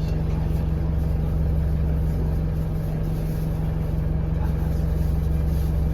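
Alexander Dennis Enviro200 single-decker bus heard from inside the cabin: its diesel engine runs with a steady, deep drone under a haze of road and cabin noise.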